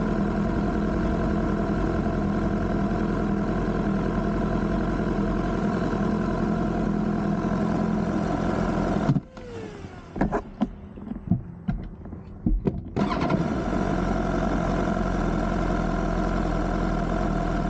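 BMW S1000R's inline-four engine idling steadily. About nine seconds in it cuts off abruptly, leaving a near-quiet gap of about four seconds with a few sharp clicks and knocks, then the idle returns abruptly.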